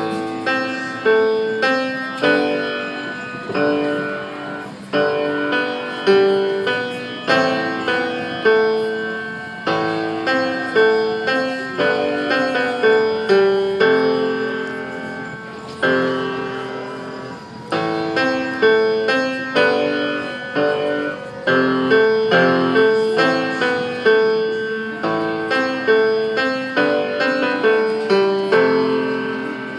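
Background music: a piano playing a melody of struck notes, a few a second, each note ringing and fading.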